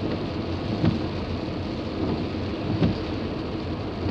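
Rain and road noise heard from inside a moving car, a steady low rush, with a short thump about every two seconds.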